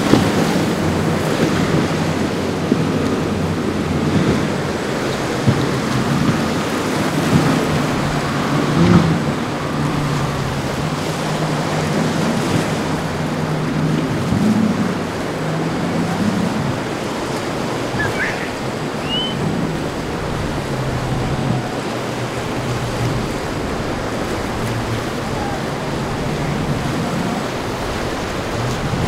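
Boat engines humming over the steady wash of waves and sea, with wind rumbling on the microphone.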